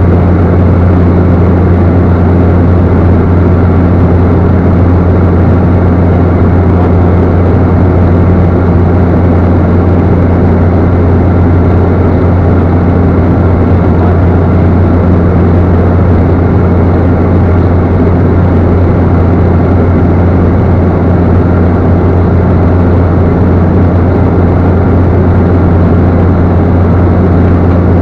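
Cessna Caravan's single turboprop engine and propeller running steadily, a constant loud drone with a deep low hum.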